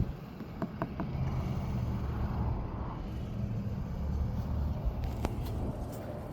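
Car engine running with a steady low rumble. Two sharp clicks come just under a second in and another about five seconds in.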